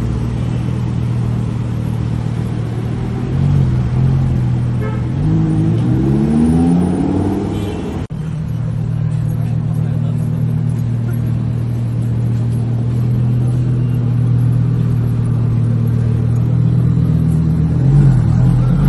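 Sports car engine running with a steady drone, revving up in rising sweeps about five to seven seconds in and again near the end. The sound breaks off abruptly about eight seconds in and resumes at once.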